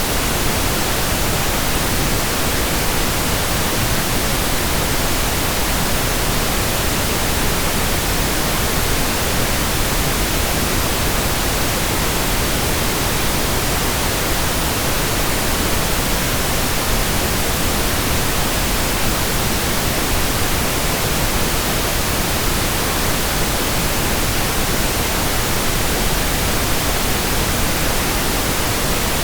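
Steady pink noise: an even, unbroken hiss over all frequencies, deeper than white noise.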